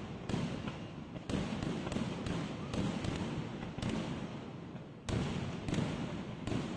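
Fireworks display: an irregular volley of about a dozen loud bangs, each followed by a low rumbling echo, with a short lull in the middle.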